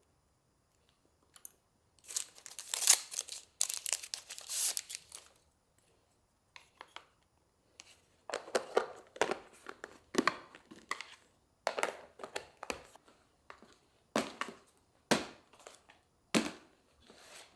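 Crinkling and tearing of packaging being handled, in irregular bursts: one longer stretch about two seconds in, then a run of shorter rustles.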